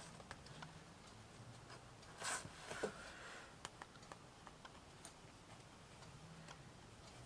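Quiet hand handling of craft pieces: scattered small clicks and taps, with a brief rustle about two seconds in.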